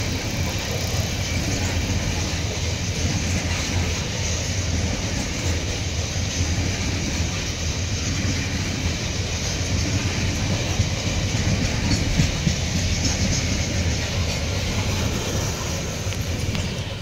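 Long train of GB45 open freight wagons rolling past close by: steel wheels rumbling steadily on the rails.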